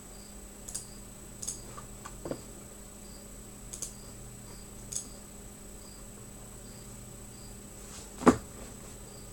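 Quiet room tone with a steady high whine and a faint short chirp repeating a little more often than once a second. A few light clicks sound in the first half, and one sharp knock comes near the end.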